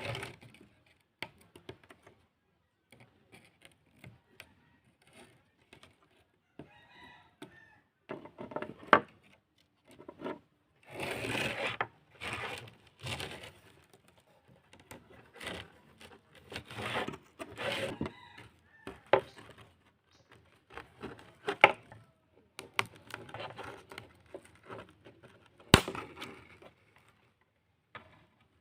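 Handling and work noises from a router repair: irregular clicks and knocks of small parts and tools, with stretches of scraping or scrubbing.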